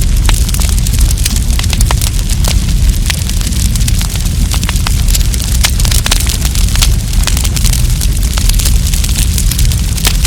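Wood campfire burning, with frequent sharp crackles and pops scattered irregularly over a steady low rumble and hiss.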